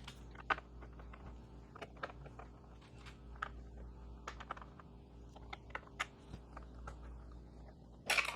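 Scattered small metallic clicks and taps of a hex key and bolts being fitted and tightened into a plastic motorcycle fairing, irregular and a second or so apart, with a louder clatter near the end.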